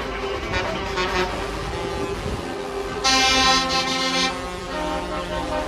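Lorries running past in convoy with a low engine rumble. About three seconds in, a truck air horn gives a loud chord of several tones lasting over a second, and lower horn tones keep sounding after it.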